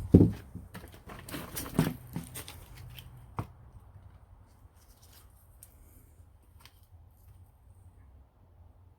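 Handling noises from a sleeve of firework shells being set on a scale: a loud knock right at the start, then a few scattered rustles and taps over the next three seconds, ending in a sharp tap.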